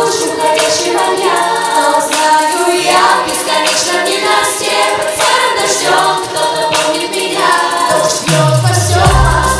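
Children's vocal ensemble singing in close harmony with little accompaniment. About eight seconds in, a falling bass sweep leads into a heavy bass beat as the backing track comes in.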